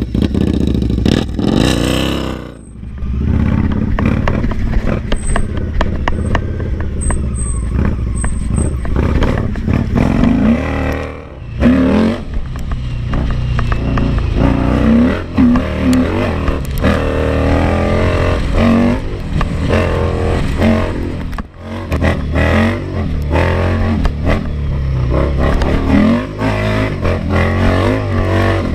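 Indian Scout Sixty's liquid-cooled V-twin engine being ridden hard, its pitch rising and falling over and over as the throttle is worked, with brief lifts off the throttle about a third and three quarters of the way through.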